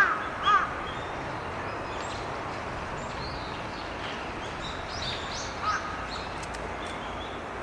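A crow cawing: one loud caw about half a second in and a fainter one near six seconds. Thin high chirps of a small bird come in between, over a steady background hiss.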